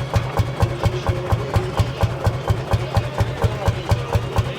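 Lanz Bulldog tractor's single-cylinder two-stroke hot-bulb engine idling, an even slow thumping at about four to five beats a second.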